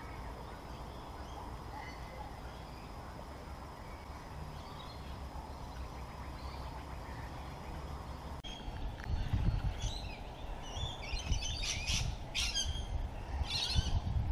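Open-air ambience with faint bird chirps. About eight seconds in, the sound changes abruptly, and several louder bird calls follow, some in quick runs, over a low rumble of wind on the microphone.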